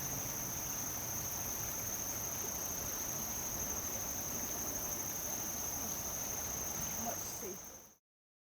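Insect chorus, a steady high-pitched trill that fades out near the end.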